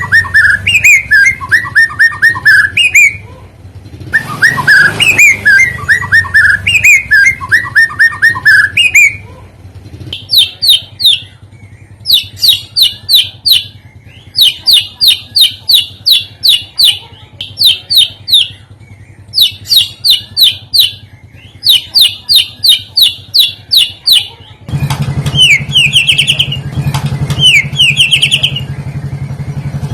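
Recorded songbird song used as a lure and tutor track for white-rumped shamas. First, repeated phrases of falling whistled notes. From about ten seconds in, short bursts of fast chirping trills follow one another, and near the end a different song comes over a steady low hum.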